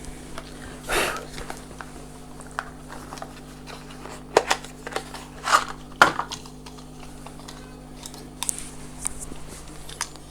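Handling noise from a plastic tape measure and its packaging: scattered sharp clicks and short rustles, over a steady low hum.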